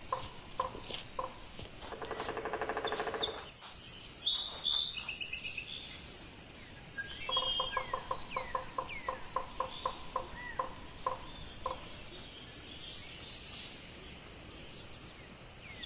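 Wild birds calling and singing: a fast chattering rattle, then high chirps, then a quick run of evenly repeated notes, with short downward whistles scattered throughout.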